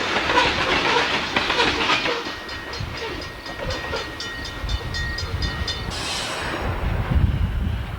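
Freight train passing, wheels rumbling and clacking on the rails. Midway comes a few seconds of repeated metallic ringing, about four strikes a second, that stops suddenly, followed by a low rumble.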